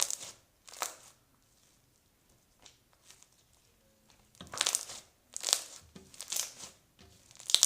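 Clear slime being squeezed and stretched by hand, crackling and popping in short bursts: two near the start, then four in quick succession from about halfway in.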